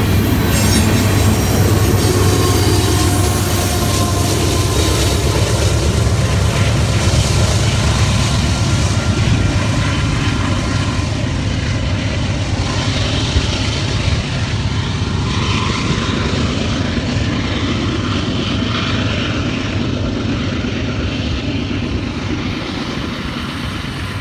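Train passing, the steady rumble and clatter of its cars and wheels on the rails with some thin wheel squeal, slowly fading toward the end.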